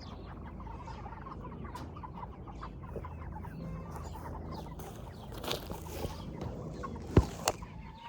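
Cornish cross meat chickens clucking, with a sharp knock near the end.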